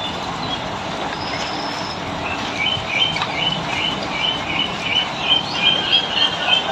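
Bulbul calling: a run of short chirps repeated about twice a second, starting about two seconds in, over a steady hiss.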